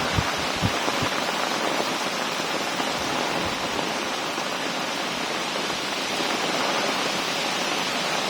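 Heavy rain pouring steadily, an even dense hiss, with a few brief low rumbles of wind buffeting the microphone in the first second.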